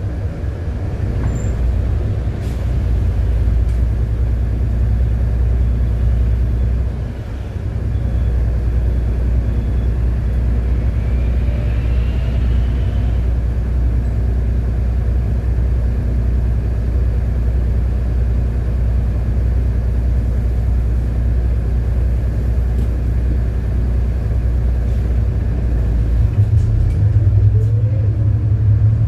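City bus engine and road noise, heard from inside the cabin while the bus drives. The low drone dips briefly about seven seconds in and changes pitch near the end as the bus changes speed.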